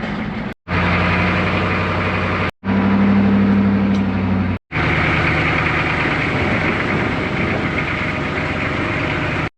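Farm machinery engines running in a string of short clips, each ending in an abrupt cut: three hard cuts in the first five seconds, each giving a different engine note, then one longer steady stretch.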